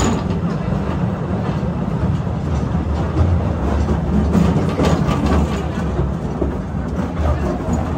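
Narrow-gauge cave train running along its track: a steady low rumble from the wheels and carriages, with scattered clicks and rattles.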